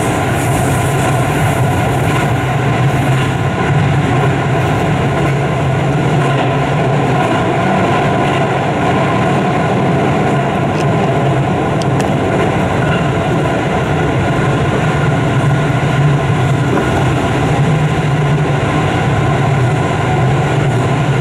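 Keio Liner train (Keio 5000 series) running steadily at speed through a tunnel, heard from inside the car: continuous wheel-and-track running noise with a steady low hum.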